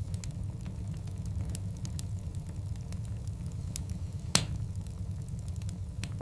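Large wood logs burning in a fireplace: a steady low rumble of the fire with scattered sharp crackles, and one louder pop about four seconds in.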